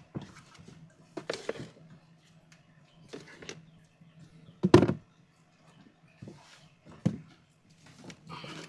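A series of irregular knocks and thuds, about six in all, the loudest just before five seconds in, over a faint steady low hum.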